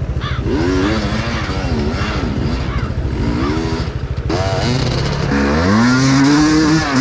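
Enduro dirt bike engine being revved in short bursts, its pitch rising and falling several times, then held higher in a longer rev near the end.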